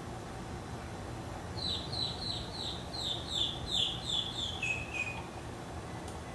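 A songbird singing a quick series of about ten downward-slurred whistles, about three a second, ending on two lower, level notes.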